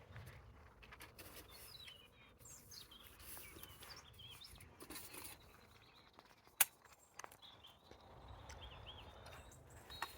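Outdoor ambience of small birds chirping and calling, faint, with a few light handling ticks and one sharp click about two thirds of the way through.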